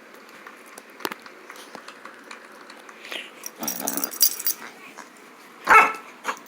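Four-month-old puppy at play, with scattered clicks and a scratchy scuffle in the middle, then one short, loud bark near the end.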